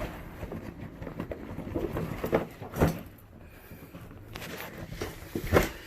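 Rummaging through a tool bag: rustling and handling noise with a few scattered knocks and clunks of tools being moved.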